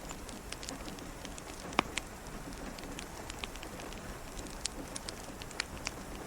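Steady rain pattering against a window, with a wood fire crackling: scattered sharp pops and ticks, the loudest a little under two seconds in.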